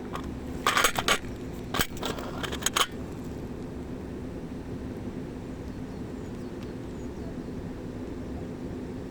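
A steady low rumble with a faint hum, broken during the first three seconds by a cluster of sharp clicks and knocks.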